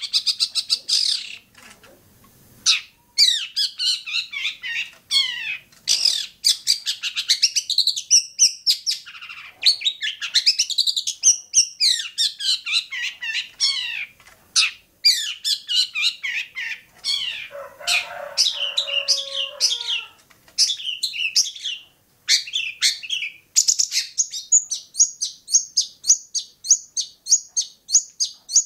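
Long-tailed shrike (cendet) singing: a long, varied stream of fast, high chirps and trills broken by short pauses. Near the end it settles into a steady, rapid run of high notes.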